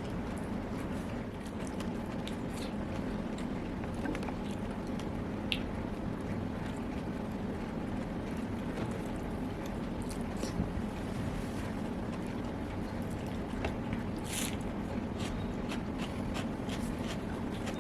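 Close-miked eating: soft chewing, squishy mouth sounds and small scattered clicks of someone eating a meal, over a steady low background rumble.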